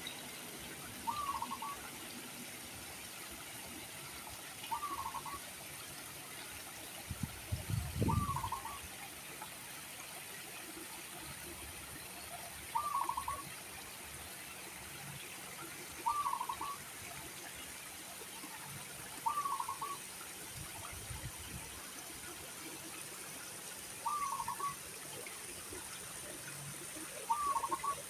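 A bird calling a short, clipped note over and over, about once every three to four seconds, over a steady background hiss. A low thump and rumble breaks in once about eight seconds in.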